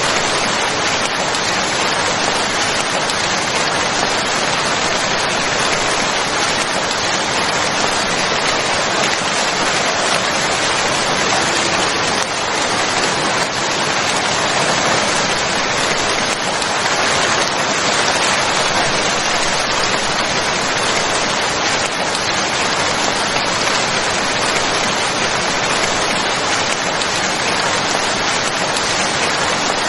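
Steady heavy rainfall, an even dense hiss of rain falling on surfaces.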